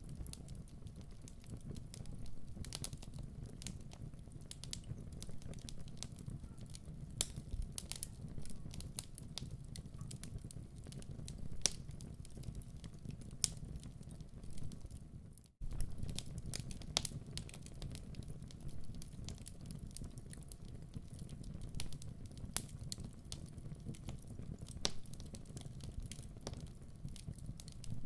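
Wood fire crackling in a fireplace, with irregular sharp pops and snaps over a low steady rumble of the flames. The sound cuts out for a split second about halfway through, like a loop seam.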